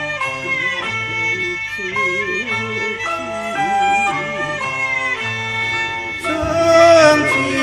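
Cantonese opera instrumental interlude: an ensemble led by a bowed fiddle plays the melody between sung verses, growing louder about six seconds in.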